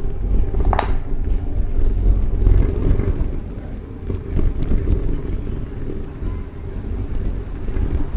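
Wind buffeting the microphone as a steady low rumble over outdoor ambience, with a brief high squeak about a second in.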